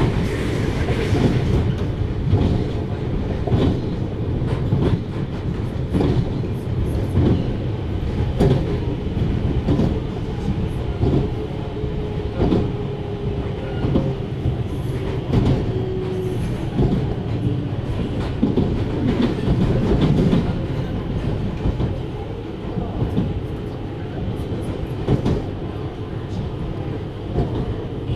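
JR Hokkaido 733 series electric train running at speed: a steady rumble of wheels on rail with regular clacks over the rail joints, about one a second. A faint tone falls slightly in pitch midway.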